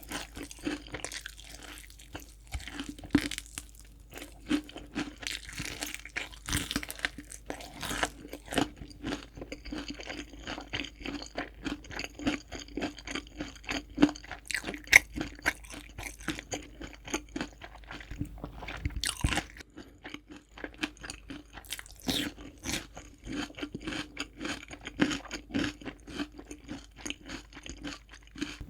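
Crispy fried chicken being bitten and chewed close to the microphone: a long run of loud, irregular crunches.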